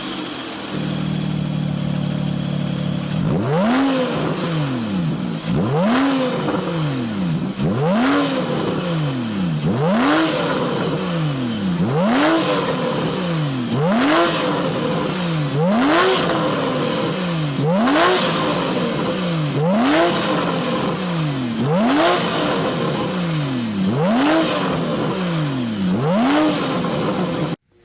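Porsche 911 (991) flat-six engine through a Capristo valved aftermarket exhaust, idling for a few seconds and then revved in sharp blips, about a dozen in a row, one every two seconds, each rising quickly and falling back to idle. The sound cuts off suddenly at the very end.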